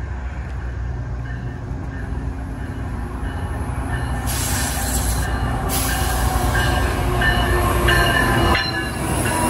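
GO Transit commuter train with its diesel locomotive leading, pulling into the station as it slows: a low rumble grows steadily louder as it comes close. From about halfway through, high-pitched squealing and a hiss join in, loudest as the locomotive passes close by.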